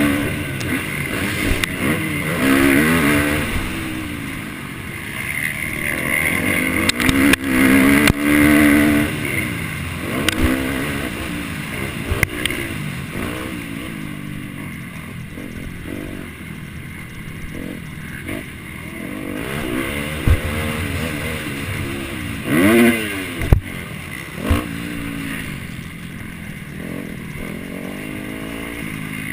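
Motocross bike engine racing, its pitch climbing and dropping repeatedly as the throttle is opened and shut through the gears, with a few sharp knocks.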